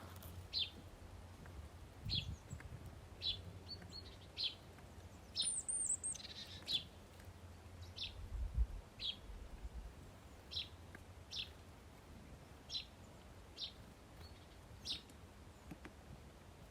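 Songbird chirping repeatedly, short single chirps about once a second, with a higher, sweeping call from another bird briefly near the middle. A low steady rumble runs underneath.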